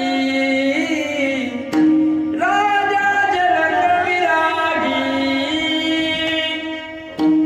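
A man singing a devotional kirtan melody with musical accompaniment, in long drawn-out notes: one phrase ends a couple of seconds in, and after a short break a second long held phrase follows.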